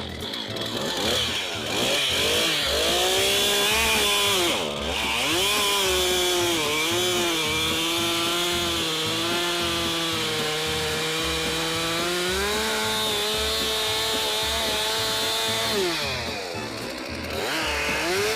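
Stihl two-stroke chainsaw revving and cutting through a log while bucking it, its engine pitch dipping and rising and holding lower under load for several seconds. It drops back toward idle near the end and revs up again.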